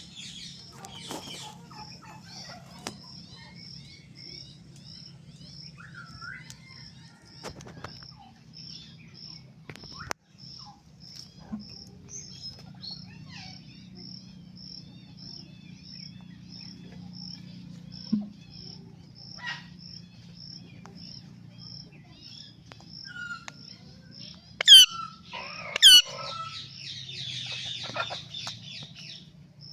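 Parrot giving two loud, sharp screeches that sweep down in pitch near the end, followed by a short harsh rasping call, with scattered small clicks. Behind it, a steady high chirp repeats about twice a second over a low hum.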